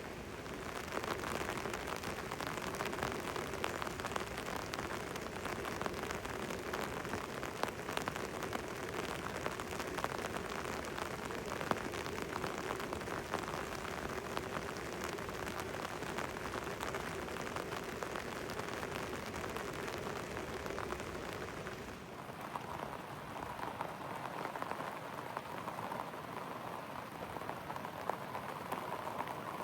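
Steady rain falling, with many small, sharp drop ticks. About 22 seconds in, the low rumble drops away and a higher, steady hiss comes forward.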